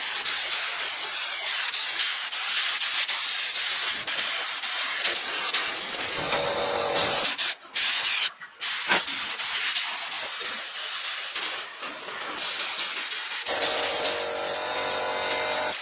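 Steady hissing spray noise, broken by a few abrupt cuts near the middle.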